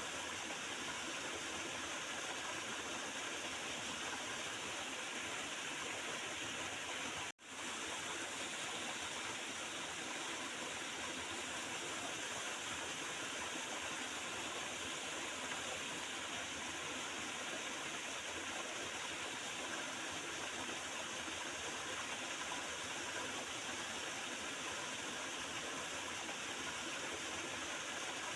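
Water of a small river flowing and gurgling steadily, with a split-second dropout about seven seconds in.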